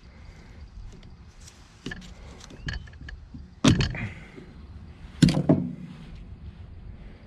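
Heavy metal parts knocking and clanking during work on a truck's front hub and brake assembly: a few light clicks, then two loud clanks with a short ring, about three and a half and five seconds in.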